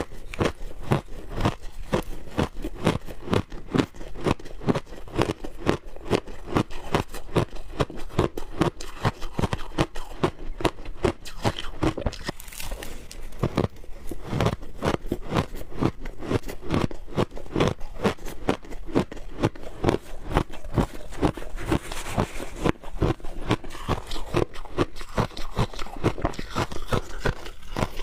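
Person biting and chewing frozen shaved ice: a steady run of crisp crunches, about two or three a second.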